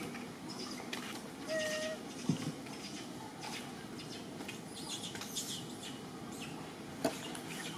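Small birds chirping over a steady background hiss, with a short steady whistled note about a second and a half in and a sharp click near the end.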